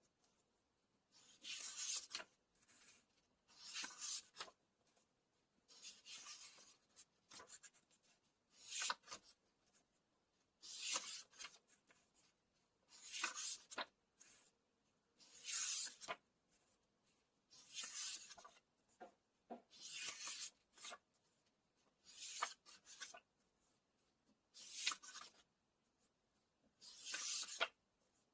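Paper pages of a book being turned one at a time, about a dozen in steady succession: each turn a short papery swish, some ending with a light snap as the page drops.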